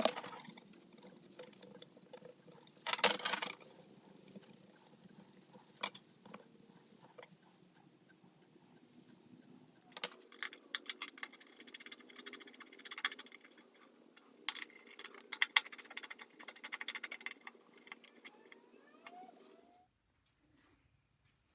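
Faint hand-work noises of cleaning a table saw's table insert: scattered small clicks and taps, a short scrape about three seconds in, and a busy run of clicking and scraping in the second half, over a low steady hum.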